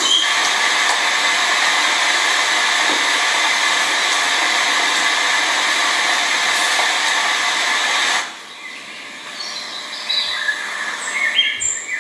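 A steady, loud rushing hiss with no pitch cuts off abruptly about eight seconds in. After it, small birds give a scatter of short, high chirps.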